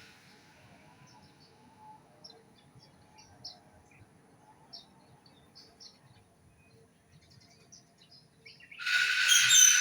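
Birds chirping, with many short, faint, high chirps throughout, then a loud bird call about nine seconds in that runs on past the end.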